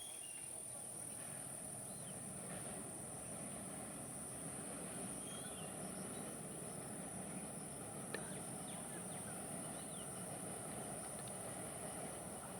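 Steady outdoor background: a continuous high insect drone with scattered short bird chirps over a low, even rumble, and a single click about eight seconds in.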